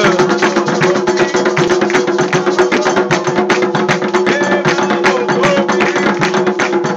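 Fast, dense Candomblé ritual drumming on atabaque hand drums, a steady stream of rapid strokes with a held tone sounding underneath.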